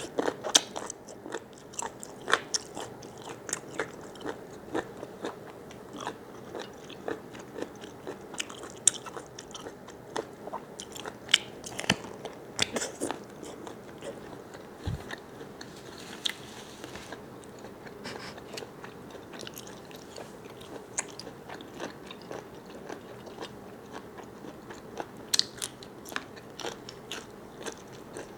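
Close-up eating sounds of someone chewing and biting squid: a steady run of irregular, sharp crunching clicks with a few louder bites.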